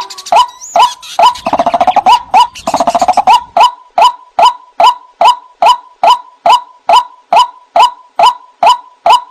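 White-breasted waterhen calling: a steady series of harsh 'kruak' notes, about two and a half a second, broken from about one to three and a half seconds in by a fast, lower gurgling rattle.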